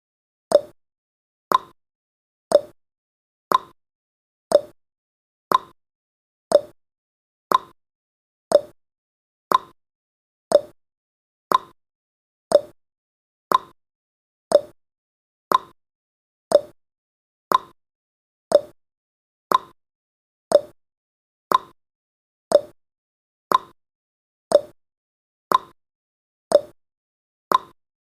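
Countdown timer's tick sound effect: a short, sharp clock-like tick once every second, evenly spaced.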